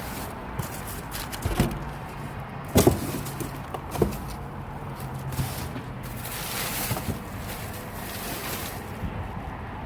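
Several sharp knocks and thumps, the loudest about three seconds in, over a low steady hum that fades out about halfway through.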